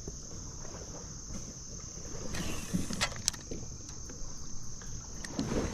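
Steady, high-pitched chorus of insects chirring, with a brief hiss about two and a half seconds in and a few light clicks just after.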